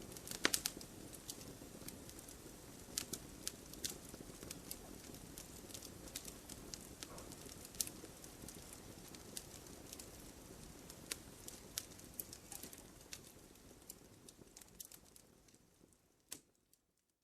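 Campfire burning: sharp, irregular pops and crackles from the burning wood over a soft steady hiss of the flames. The sound fades away over the last couple of seconds, dropping to silence at the very end.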